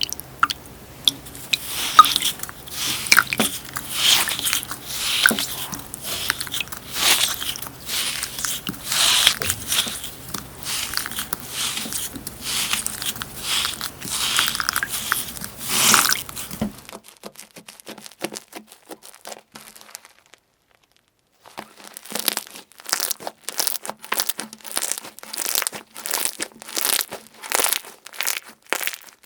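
Crunchy slime being squeezed and pressed by hand, giving dense crackling and crunching pops. About two-thirds of the way through the sound drops out briefly, then picks up again as quick, crisp clicking crackles, several a second.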